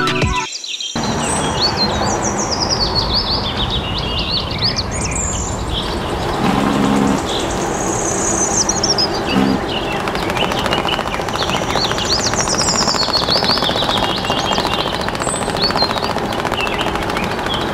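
Small birds chirping and twittering in quick bursts that come back every few seconds, over a steady background noise.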